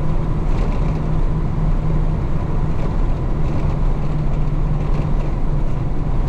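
1966 Isuzu BXD30 bonnet bus's DA640 diesel engine running under way, a loud, steady low drone at an even pitch.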